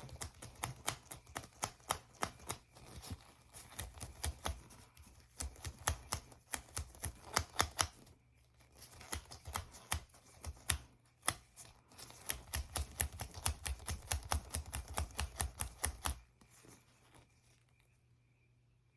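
Hands handling a syringe and small plastic supplies, making an irregular run of sharp clicks and taps, several a second, that stops about sixteen seconds in.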